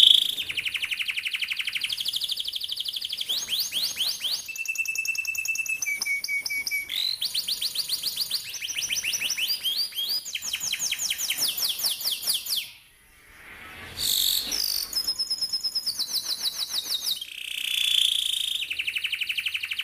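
Domestic canary singing a long rolling song: fast trills of rapidly repeated notes that change from phrase to phrase, with a few short held whistled notes and a brief break about two-thirds of the way through.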